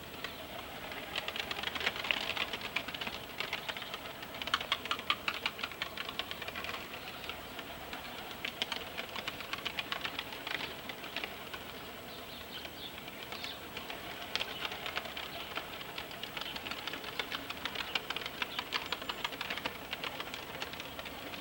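A flock of young fighting pigeons' wings clattering in rapid flaps, in waves that rise and fade every few seconds.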